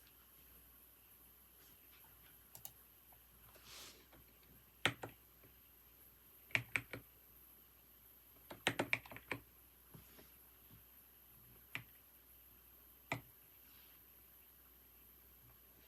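Computer keyboard typing in sparse, irregular bursts: single keystrokes with pauses between them and a quick run of several keys about nine seconds in.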